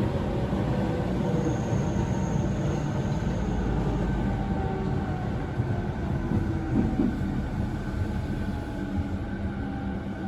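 JR E217 series electric train running, heard from inside the car: wheel and rail rumble with the steady tones of its Mitsubishi IGBT VVVF inverter and traction motors. The sound eases off slightly near the end.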